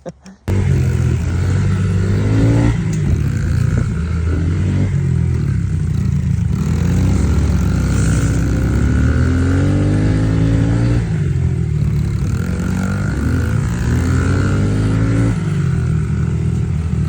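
Pit bike engine running hard, its pitch climbing and dropping back several times as the rider accelerates and shifts up through the gears, with wind noise over it. The sound cuts in abruptly about half a second in.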